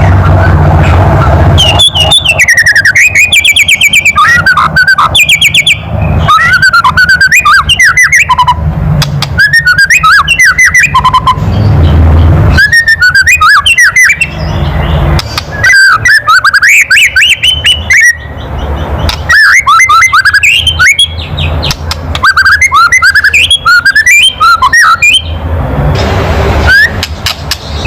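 White-rumped shama (murai batu) giving its loud kretekan: fast rattling clicks mixed with whistled notes sliding up and down, in bursts a few seconds long with short pauses between. It is the agitated rattle used to provoke other shamas into singing.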